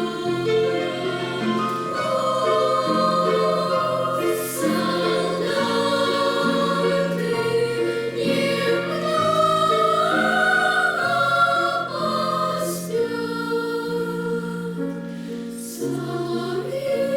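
Children's choir singing in several parts, in long held phrases, with a few hissing 's' consonants standing out.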